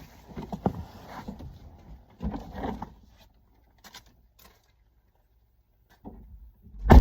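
Rustling and light knocks of things being handled and moved about in a car during the first few seconds, then a short quiet spell and a single loud, deep thump near the end.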